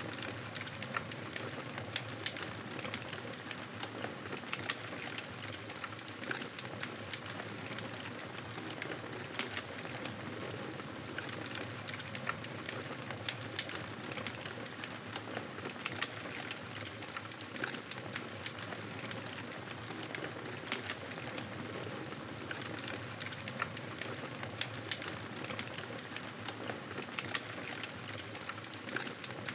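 Wood campfire burning: a steady hiss of flames with frequent sharp crackles and pops from the burning wood.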